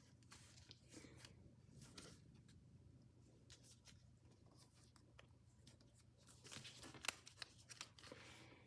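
Faint rustling and crinkling of origami paper being handled and folded, over a low steady hum, with a few sharper crinkles in the last couple of seconds.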